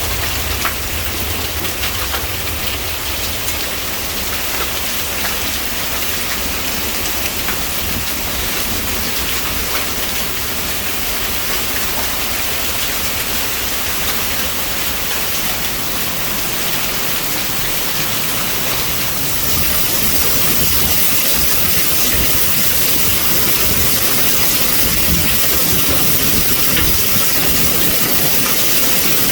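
Heavy rain of a hail and wind storm pouring down, a dense steady hiss with scattered sharp ticks; it grows louder and brighter about two-thirds of the way in.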